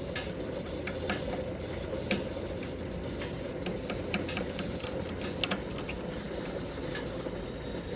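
Pressure washing rig's engine and pump running steadily, with scattered sharp clicks and taps as the failed downstream injector is worked on by hand.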